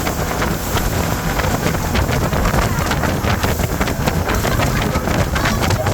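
Speedboat under way: its engine and rushing water under heavy wind buffeting on the microphone, with many short knocks and crackles throughout.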